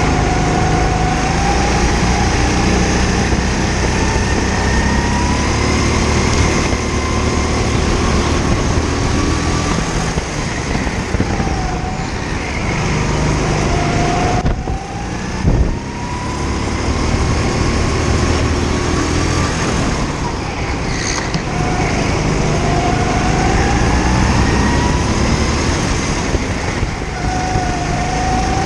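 Kart engine revving hard, its pitch repeatedly climbing and then dropping back as the throttle is lifted. About fifteen seconds in, the sound briefly dips and there is a short low thump.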